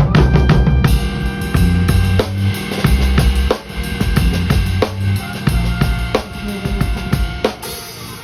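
Live band playing a rehearsed passage: drum kit with bass and held chord tones. The fuller band comes in about a second in after a fast run of even drum strokes, and the music dies away near the end.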